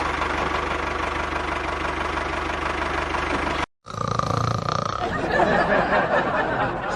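An engine running steadily with an even, fast pulse. It cuts off abruptly a little over halfway through, then a rougher engine sound with a high whine follows.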